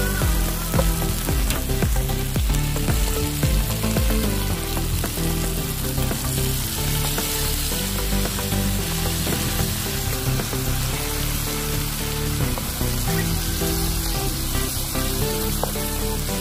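Shallots, garlic, tomato and then octopus pieces sizzling in hot oil in a frying pan, with the clicks and scrapes of a spatula stirring. Background music runs underneath.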